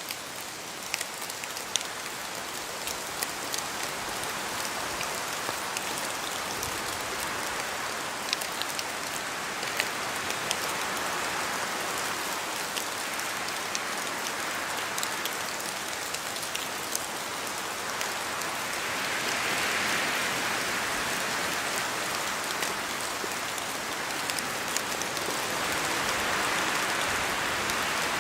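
Steady rain in a spruce forest, with many separate drops pattering and dripping from the trees. Gusts of wind through the spruce swell and fade several times, the loudest about two thirds of the way in.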